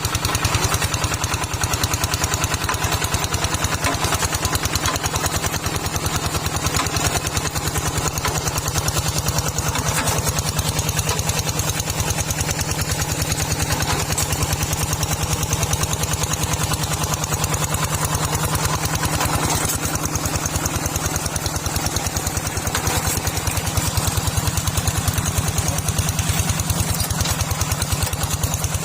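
Small farm tractor's engine running steadily at a constant speed, with a fast even firing pulse.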